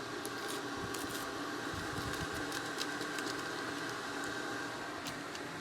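Stand mixer motor running steadily, beating butter and sugar until fluffy in its mixing bowl, with a few light clicks on top.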